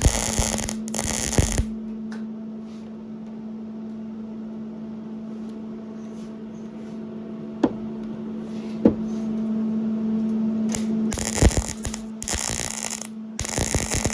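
Welding V-band flanges onto a 3-inch mild steel exhaust downpipe: a crackling burst of about a second and a half at the start and two more near the end, with two sharp clicks in between, over a steady electrical hum.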